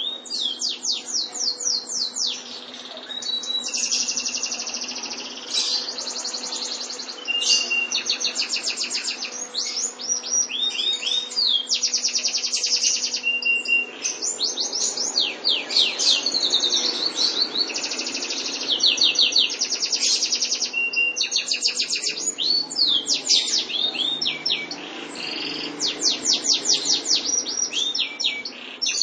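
Domestic canary singing a long, nearly continuous song of fast rolling trills and rapidly repeated chirps, broken by a few short held whistled notes and brief pauses.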